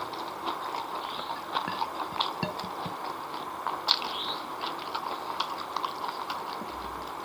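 Close-up chewing of fried noodles and spicy chicken feet eaten by hand, with many small wet clicks and smacks scattered through it. One sharper click comes about four seconds in.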